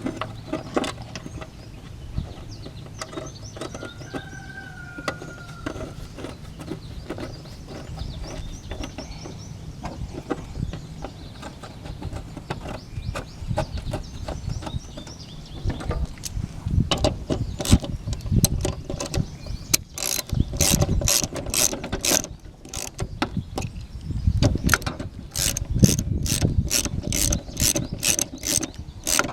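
Ratchet wrench clicking in repeated strokes as bolts are run in and tightened, mixed with clinks of metal parts and tools. The clicking gets louder and comes in quick runs over roughly the last ten seconds.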